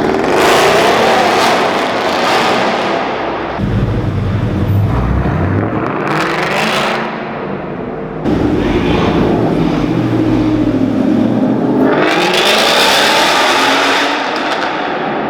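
Performance cars accelerating hard away, engines revving loudly, in several separate loud passes one after another.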